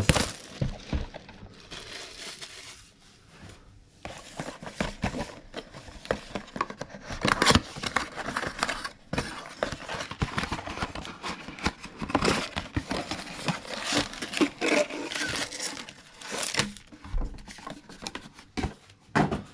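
Plastic wrapping of a trading-card mega box and its packs being torn open and crinkled by hand, in irregular bursts of crackling and tearing.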